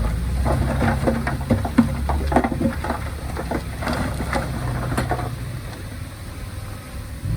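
Diesel engine of heavy earthmoving machinery running steadily, with rapid clattering and rattling over it that stops about five seconds in.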